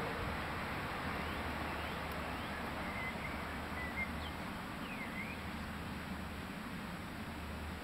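Small birds giving a few short chirps over a steady outdoor background noise.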